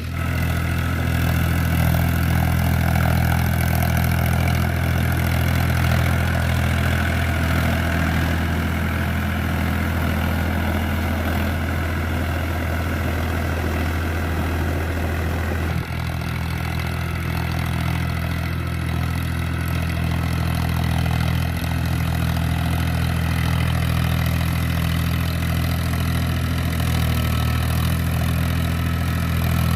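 Powertrac tractor's diesel engine running steadily, with a brief drop in level about sixteen seconds in.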